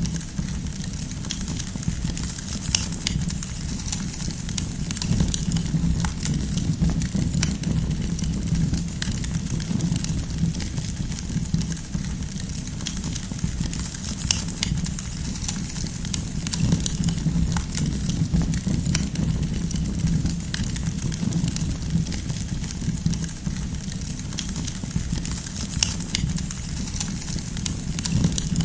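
Wood fire burning with a steady low rumble and scattered sharp crackles and pops of burning firewood.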